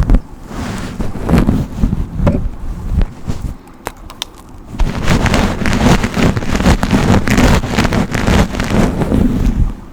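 Hairbrush strokes close to the microphone, a loud scratchy rustle with each stroke and a heavy low rumble. A few separate strokes come first, then after a short lull a run of quick steady brushing that stops just before the end.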